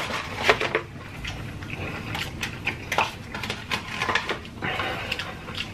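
Close-miked eating: wet chewing and lip-smacking, made up of many short, sharp smacks and clicks, with perhaps a fork against a bowl.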